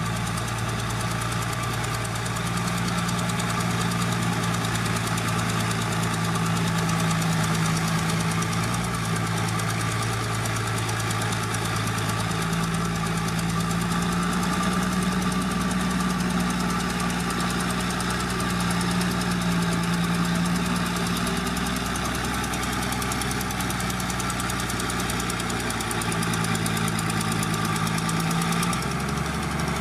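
Heavy diesel engine of earthmoving machinery running continuously, its engine note shifting in pitch about twelve seconds in and again near the end as the throttle or load changes.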